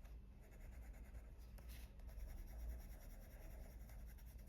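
Faint scratching of a Prismacolor coloured pencil shading on paper with light pressure, in short uneven strokes, over a steady low hum.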